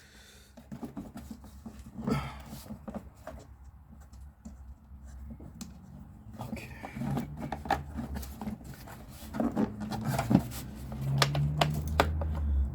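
Scattered light clicks and knocks of plastic parts being handled as a car's air filter element and air box cover are fitted back in place, over a steady low hum.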